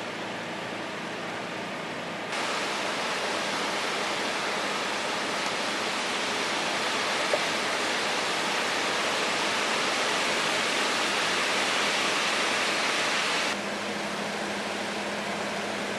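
Steady rushing of a river in flood, an even wash of water noise with no separate events; it steps louder about two seconds in and drops back near the end.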